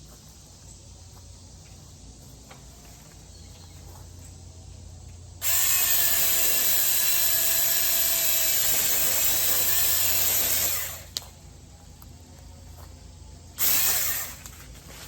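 Battery-powered mini electric chainsaw running for about five seconds, its motor whine mixed with the chain cutting through a tree branch. It stops, then runs again in a short burst of about a second near the end.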